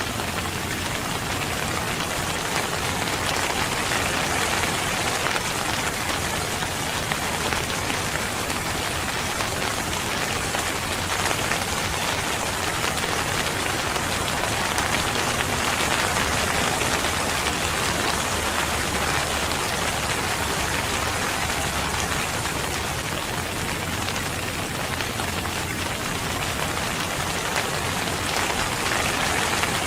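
Steady rain falling on a surface, a dense even hiss of drops with no let-up.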